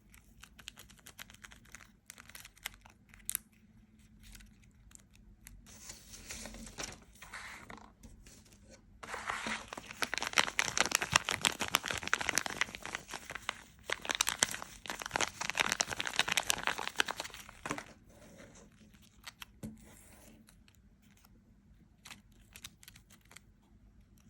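Close crinkling and crackling of something being crumpled or torn by hand, loudest in two long stretches in the middle, with scattered sharp clicks and quieter rustles before and after.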